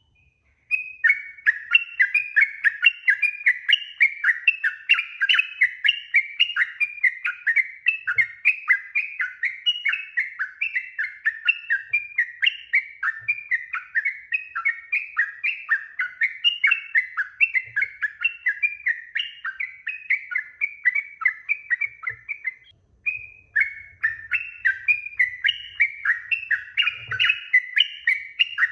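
Yellow-vented bulbul (trucuk) singing a long, rapid run of bubbly chattering notes, about three a second, with one short break about 23 seconds in.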